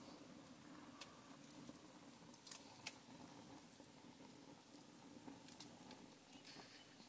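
Near silence with a few faint, sharp crackles from a wood fire burning, several of them close together between about two and three seconds in, over a low steady hum.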